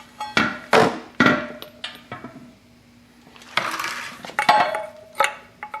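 Metal dirt-bike brake parts being handled and knocked together: a few sharp clinks with ringing in the first second and a half, a short scraping rasp about halfway, then more light knocks and clicks.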